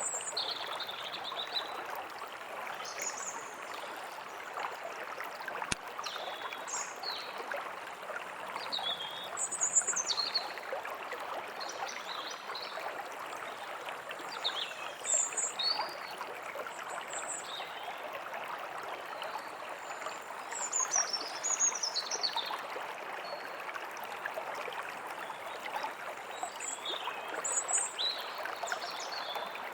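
A steady rush of flowing stream water, with songbirds chirping and calling repeatedly over it.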